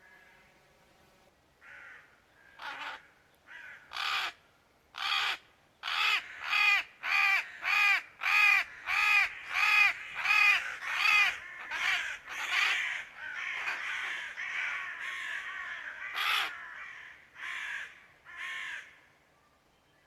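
Crow cawing in a long series of harsh calls, sparse at first, then about two a second, running together into a continuous stretch in the middle, and thinning to a few spaced caws near the end.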